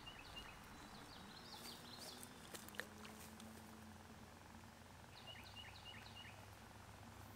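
Faint outdoor quiet with a songbird singing three short phrases of quick, repeated high chirps, and one soft click about three seconds in.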